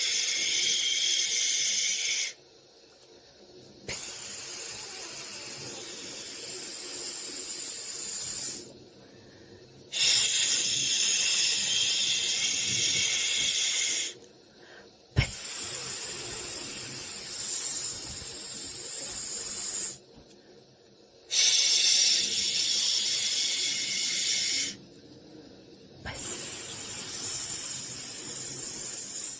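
Soothing white noise: a high, even hiss that comes in long stretches of three to five seconds, each broken by a short pause of about a second.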